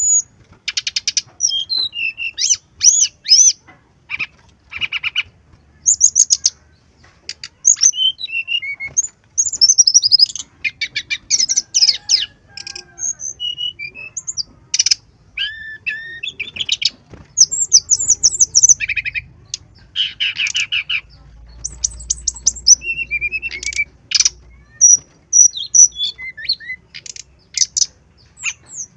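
Brown-chested jungle flycatcher singing: a run of short, loud phrases of rapid chattering trills and quick chirps, high-pitched, with brief pauses between phrases.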